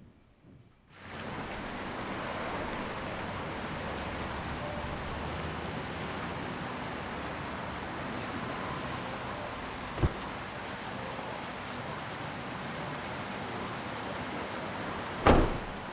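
Steady rushing noise that starts about a second in, with a short thud about ten seconds in and a louder, low thump near the end.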